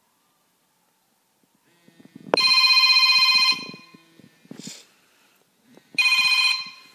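Phone ringtone ringing twice: a bright electronic tone of just over a second about two seconds in, and a shorter one near the end, the call that is then answered.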